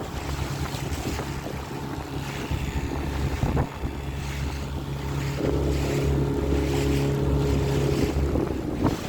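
Small hire motorboat's engine running steadily, with wind buffeting the microphone. About halfway through the engine gets louder for a few seconds, with a higher hum coming in.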